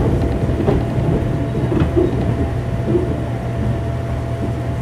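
Running sound inside a JR 205-series 0 electric multiple unit motor car with inner-fan traction motors: a steady low rumble with a faint steady hum and a few clicks of the wheels passing over rail joints.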